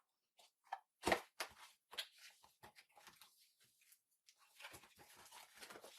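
Packaging being handled while a coffee maker is unboxed: irregular knocks, clicks and rustling of cardboard and packing material, with a louder thump about a second in and denser rustling near the end.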